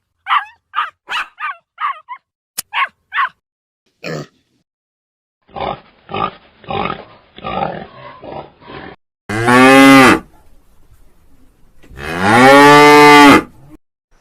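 Cow mooing: two long, loud moos, the second about two seconds after the first, in the second half. Before them come a run of short, quieter high calls and then a rougher series of shorter calls.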